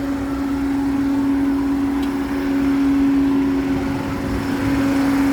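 Diesel engine of a Case IH 340 half-track tractor running steadily under load as it pulls a disc chisel, a constant drone that gets a little louder through the middle.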